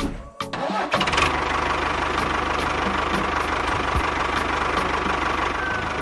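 An engine starting about a second in, then running steadily with a fast, even chug.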